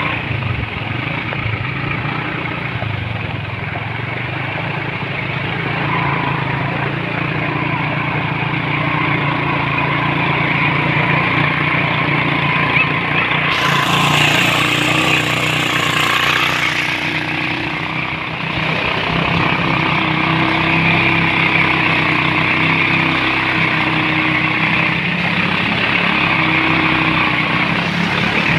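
Motorcycle engine running steadily while riding along a water-covered road, with a hiss that grows louder and brighter for about three seconds around the middle.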